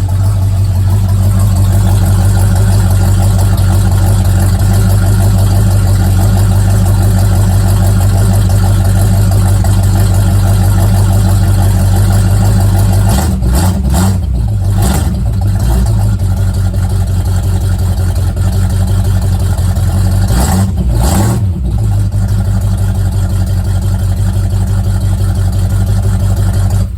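Ford Mustang engine running loud and steady at idle on a cold start, breathing through a Y-pipe and a Cherry Bomb muffler. The pitch rises and falls briefly twice, about halfway through and again some seconds later, as the throttle is blipped, and the sound stops suddenly at the end.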